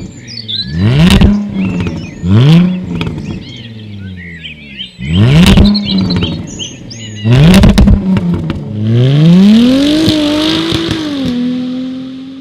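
Jaguar F-Type V6 S's supercharged 3.0-litre V6 revved through its exhaust in four quick, sharp blips, each falling off with loud crackles and pops. Near the end comes a longer rev that holds briefly, then drops and settles to a steady tone. Birds chirp between the blips.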